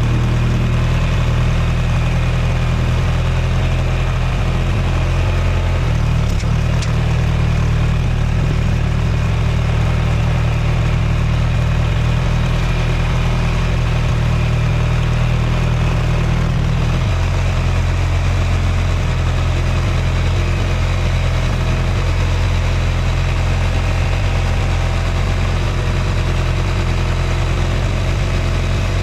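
An engine idling steadily, its low note shifting slightly a little past halfway through.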